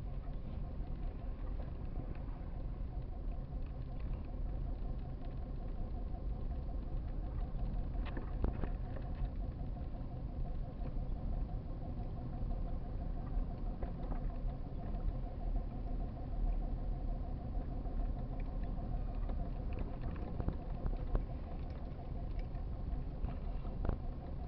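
Vehicle engine and road noise heard from inside the cabin while driving in snow: a steady low rumble with an even drone over it, and a few faint clicks.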